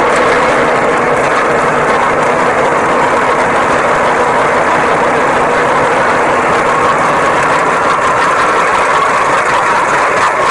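A heavy vehicle engine running steadily at an even speed, with a constant hum.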